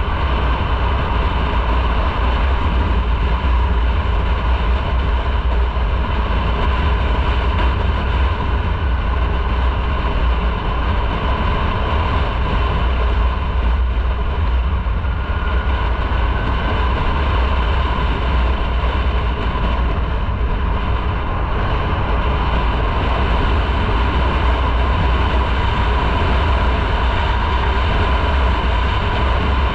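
Motorcycle running at a steady cruise, its engine note held even, under a heavy low rumble of wind buffeting the microphone.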